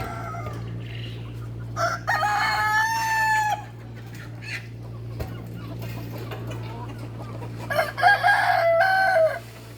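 A rooster crowing twice, each crow a long call of about a second and a half, over a steady low hum.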